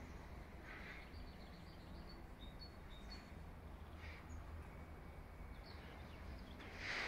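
Quiet outdoor ambience: small birds give short, high chirps again and again over a low steady rumble, with a brief louder hiss near the end.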